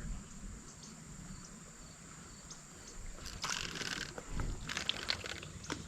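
Faint creek-side ambience with a thin, steady high-pitched tone, broken by a few short rustling noises in the second half.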